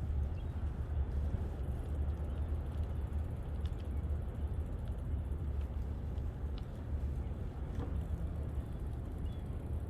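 Wind buffeting the microphone of a bicycle-mounted camera during a ride, a steady low rumble that wavers in strength, with a few faint ticks.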